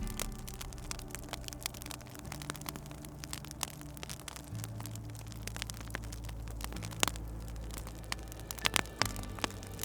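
Wood fire crackling with irregular sharp pops, the loudest about seven seconds in and near the end, over soft low sustained music notes that change pitch every couple of seconds.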